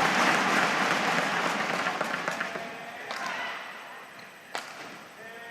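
Badminton arena crowd cheering and clapping loudly, dying down over a few seconds, with a single sharp smack about four and a half seconds in.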